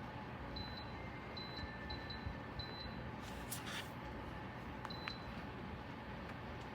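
Short high-pitched beeps in quick pairs, four pairs in the first three seconds and one more about five seconds in, over a steady hiss, with a brief rustle in between.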